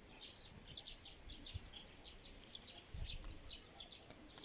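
Small birds chirping, a quick run of short high chirps repeating steadily, with a brief low rumble of wind on the microphone about three seconds in.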